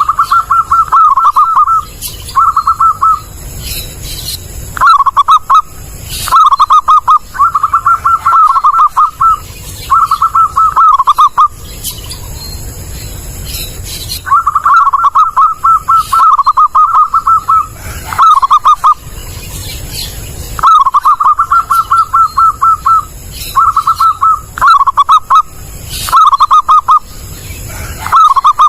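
Zebra dove (perkutut) cooing loudly and clearly in repeated phrases of rapid, trilled notes, each phrase a second or two long with short pauses between.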